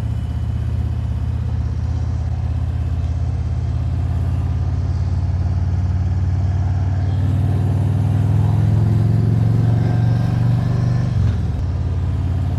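Harley-Davidson V-twin motorcycle engine running steadily at cruising speed, its note climbing a little, with a brief break in the sound about eleven seconds in.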